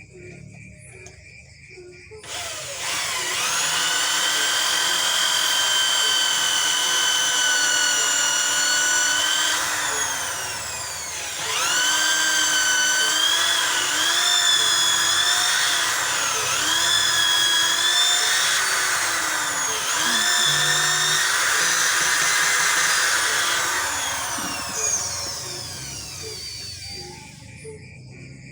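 Electric drill starting up and running at high speed with a steady whine. Its pitch sags several times as it comes under load, then winds down near the end.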